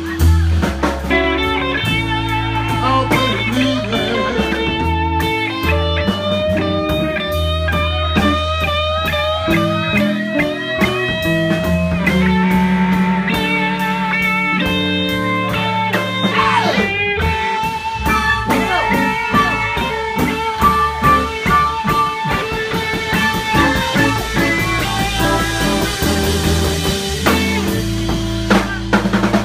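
Live blues band playing an instrumental passage: a guitar lead with bent and wavering notes over bass and drums.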